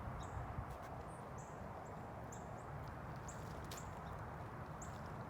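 Small birds chirping: short high notes about twice a second, faint over a steady low outdoor rumble.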